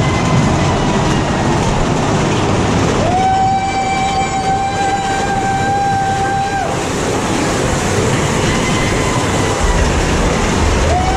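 Big Thunder Mountain Railroad mine-train coaster running along its track with a steady rumble. About 3 s in a flat, whistle-like tone rises in and holds for about three and a half seconds, then sounds again near the end.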